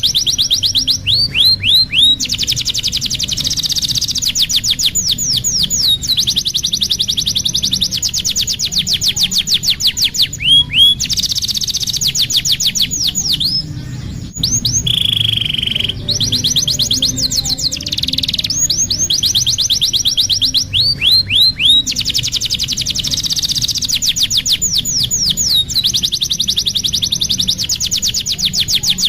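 Domestic canary singing a long, continuous song of rapid rolling trills, with phrases of fast downward-sweeping whistled notes repeated between them. About halfway through the trills stop briefly and a single held whistled note sounds before the song resumes.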